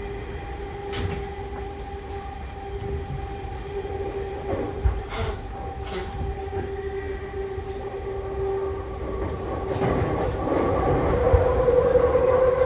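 Tokyu 3020 series electric train running, its motor drive giving a steady whine that shifts higher and grows louder about ten seconds in, with a few sharp clicks from the running gear.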